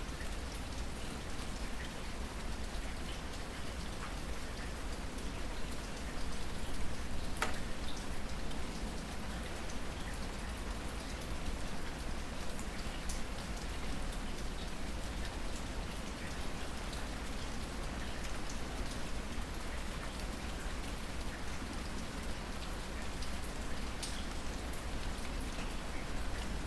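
Steady rain falling, with scattered louder drops ticking sharply close by, the clearest about seven seconds in and again near the end.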